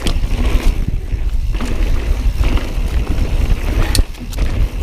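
Mountain bike riding a rough trail: steady wind buffeting and tyre rumble on a helmet or chest camera's microphone, with a few sharp clicks and knocks from the bike, most of them about four seconds in.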